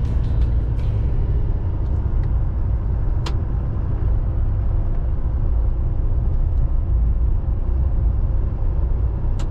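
2020 GMC Sierra pickup driving at road speed: a steady low rumble of engine and tyre noise, with one short click about three seconds in.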